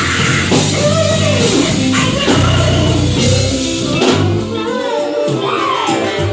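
Live gospel band music: electric guitar, bass and drums keep a steady beat while a voice sings and slides between notes over it.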